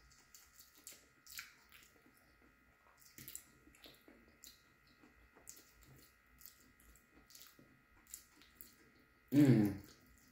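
A person chewing a mouthful of pastry pie with the mouth closed: soft wet clicks and smacks. A short voiced sound comes about nine seconds in and is the loudest thing.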